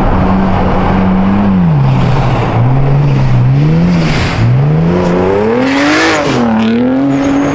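Single-turbo BMW 335i straight-six engine revving under load, its pitch rising and falling several times and reaching its highest about six seconds in.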